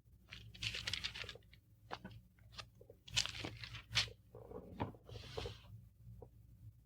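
Faint paper rustling as the pages of a Bible are turned, with scattered small clicks and soft swishes.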